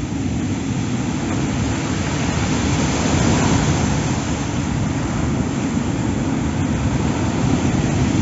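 A rough, unusually high storm sea, with waves surging and breaking in a continuous loud rush, along with wind.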